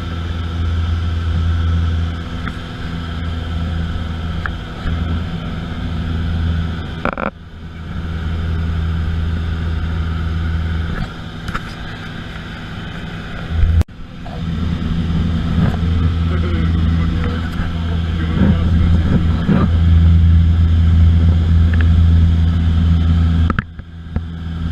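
Steady drone of an airplane engine: a low, even hum with several overtones. It breaks off abruptly three times as the recording cuts.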